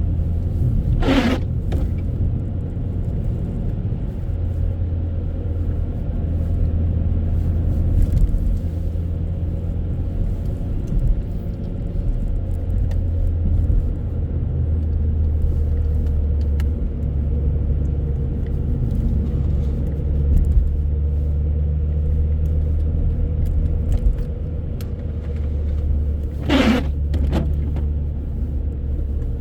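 Steady low rumble of road and engine noise inside a moving car, with two brief whooshes, about a second in and near the end.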